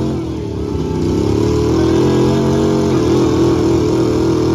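Pulling truck's engine running hard at high revs. It dips briefly at the start, climbs back within about a second and then holds steady.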